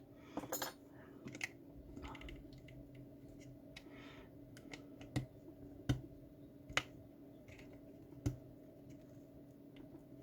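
Small tool clicking and scraping on the plastic of a car fuse box casing as terminal wires and their locking pieces are prised out. There are about half a dozen sharp clicks at uneven intervals, with softer scratching between them, over a faint steady hum.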